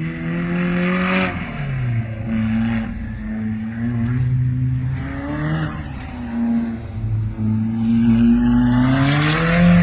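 Alfa Romeo 4C's turbocharged 1.75-litre four-cylinder engine accelerating hard through an aftermarket 3-inch stainless exhaust. The pitch climbs, drops sharply with a gear change about a second in and again about halfway through, then climbs steadily again near the end.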